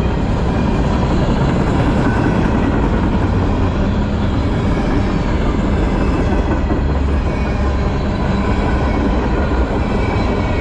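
Freight train's covered hopper cars rolling past close by: a steady, loud rumble and rattle of steel wheels on the rails.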